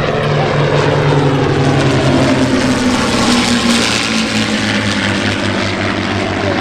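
Piston-engine WWII fighters, a Zero, a P-51 Mustang and a Spitfire, making a pass: a loud propeller-engine drone that drops in pitch as they go by, about four seconds in.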